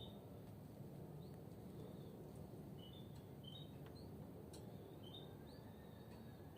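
European goldfinches giving short, faint chirping call notes scattered through, over a steady low background hum, with a few sharp little clicks.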